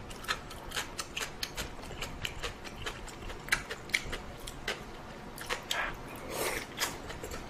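Close-miked eating: a person chewing, with a string of irregular wet mouth clicks several times a second.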